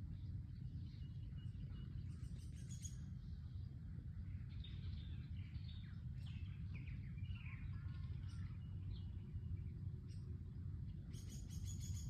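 Several wild birds chirping and calling, with short sliding notes in the middle and a rapid run of chirps near the end, over a steady low rumble.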